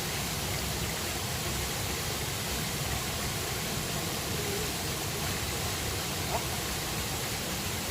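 River water rushing steadily, an even hiss with no change, with a faint tick about six seconds in.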